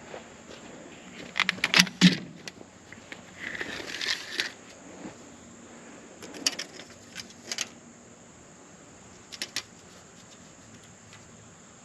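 Sporadic clicks and knocks of handling, with a loud cluster about two seconds in and a short rustle about four seconds in; no saw or engine running.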